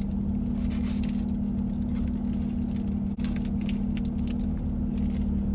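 Car engine idling with a steady hum in the cabin, under the crisp crackle and rustle of a paper sandwich wrapper being handled while the sandwich is eaten.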